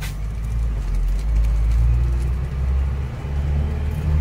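Fire engine's engine running with a steady low rumble, with one sharp click right at the start.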